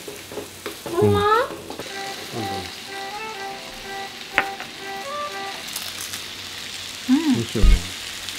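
Chicken curry puff filling sizzling steadily as it fries in a wok. A short tune of a few steady notes plays over it about two seconds in, and a voice breaks in with brief exclamations about a second in and again near the end.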